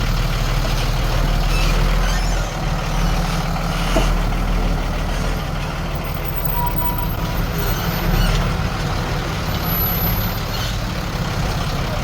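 Heavy diesel earthmoving machinery running steadily with a deep, continuous engine rumble, and a sharp knock about four seconds in.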